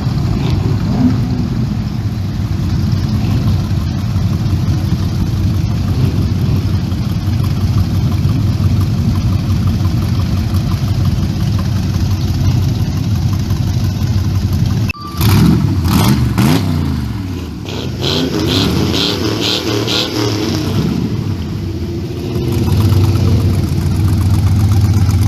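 Car engines running, steady at first. After a break about 15 s in, an engine's pitch rises and falls as cars rev and move, with a short run of quick, even ticks. Near the end an engine idles steadily.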